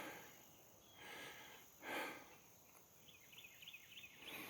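Faint outdoor ambience: a steady high insect drone, with a bird's run of quick chirps near the end and a few soft rustles.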